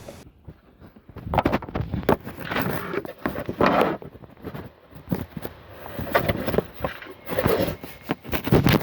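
Irregular rustling, scraping and clicking of hands working on car interior trim and plastic parts, in uneven bursts a second or so apart.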